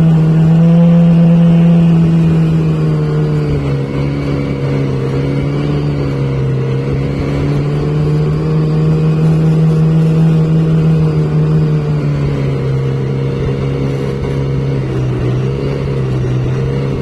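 A motor vehicle's engine running at fairly steady revs, its pitch dropping slightly about three and a half seconds in and again about twelve seconds in.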